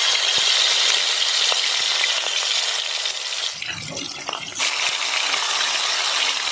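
Marinated chicken pieces frying in hot oil, a steady loud sizzle that eases briefly about four seconds in.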